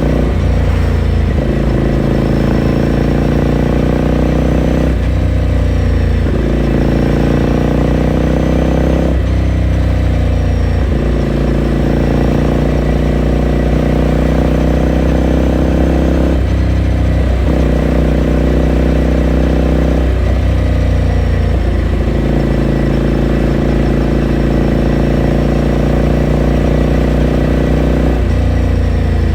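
Ducati Scrambler Sixty2's air-cooled 399 cc L-twin running under way, heard onboard with its exhaust loud and plain. The engine note holds and then changes pitch several times as the throttle opens and closes, and it falls away near the end as the bike slows.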